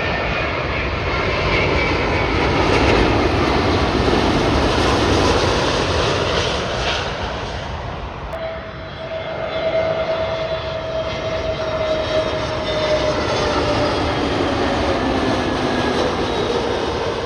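Jet airliner engines roaring overhead, swelling to a peak a few seconds in and easing off. About halfway a new engine sound rises with a clear whine that slowly falls in pitch as the aircraft passes.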